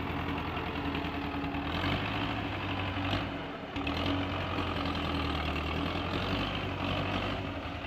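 Belarus 510 tractor's diesel engine running steadily through its silencer, with a brief dip in level about three and a half seconds in. The engine seems recently serviced.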